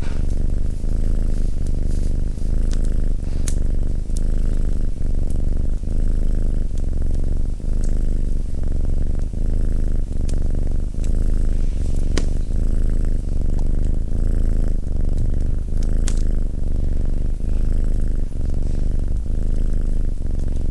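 Domestic cat purring close up: a steady low rumble that swells and fades with each breath, about once a second. Occasional sharp crackles from a wood fire in the fireplace.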